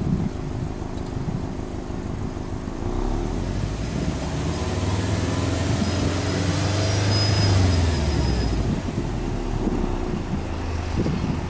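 Subaru Impreza WRX STI A-Line Type S's turbocharged 2.5-litre EJ25 flat-four, heard at the exhaust, idling and then revved slowly. The engine speed rises about three seconds in, peaks past the middle, and drops back to idle a couple of seconds before the end.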